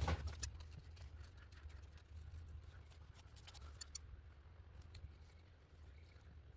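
Faint handling of paper: scattered small clicks and light rustles, over a low steady hum.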